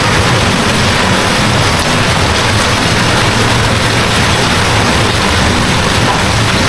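Heavy rain falling steadily, a loud even hiss, with a low steady hum underneath.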